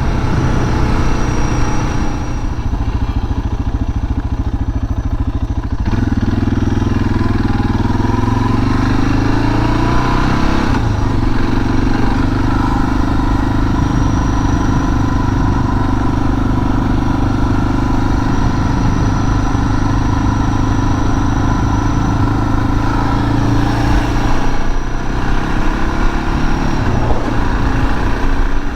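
Suzuki DR650's single-cylinder engine running under way: the revs climb about a fifth of the way in, break at a gear change, and then hold steady at cruising speed until they ease off near the end.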